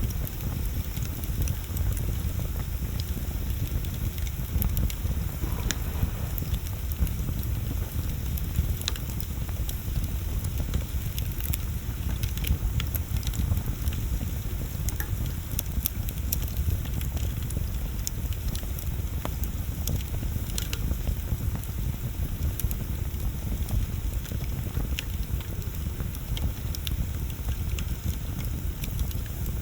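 Wood bonfire burning: scattered sharp crackles and pops over a low steady rumble.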